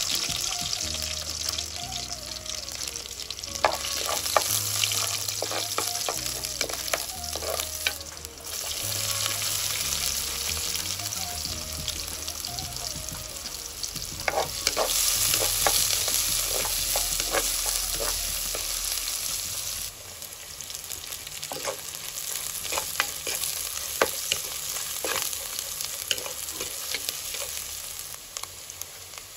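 Garlic, sliced onion and dried red chillies sizzling in hot coconut oil in a clay pot as they are stirred, with many sharp clicks through the hiss. The sizzle swells up a few times and drops back a little near the end.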